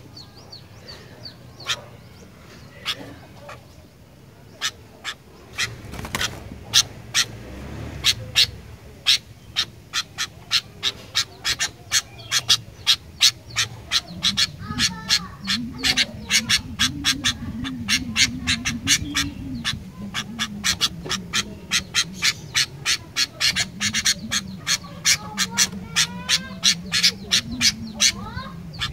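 Sooty-headed bulbul (kutilang) calling: a fast run of sharp chips, about three a second, that grows louder and denser about six seconds in, with a few short whistled phrases mixed in. A low wavering drone sits beneath it from about halfway.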